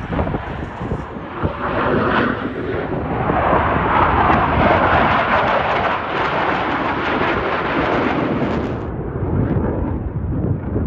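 Jet roar from Blue Angels F/A-18 Super Hornets flying past. It swells to its loudest about four seconds in and eases off near the end.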